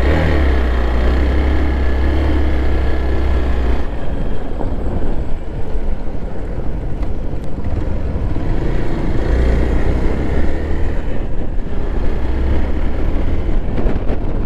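Motorcycle engine running while riding. Its low hum drops away about four seconds in and comes back strongly a few seconds later.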